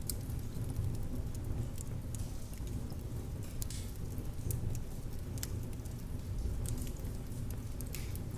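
Fire crackling in a fireplace: a steady low rumble of the flames with scattered sharp pops and snaps.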